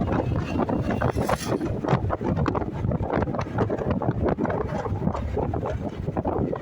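Wind buffeting the microphone of a moving motorcycle, over a steady rumble of engine and road noise, with rapid crackling gusts.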